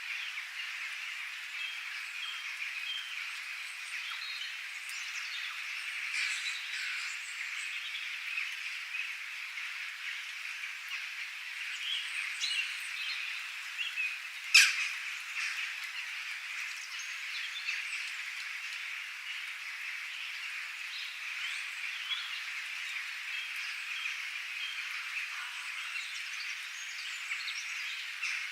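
Nature ambience of many birds chirping over a steady, dense, high-pitched chorus of small calls, with one sharp, loud call about halfway through.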